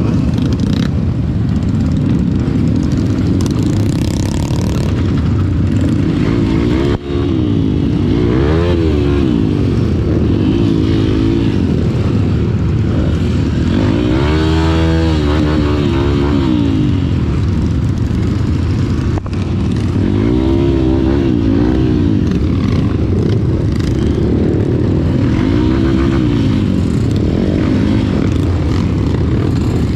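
Off-road trail motorcycle engine revving, the pitch rising and falling several times over a steady low rumble, with the longest, strongest rev about halfway through.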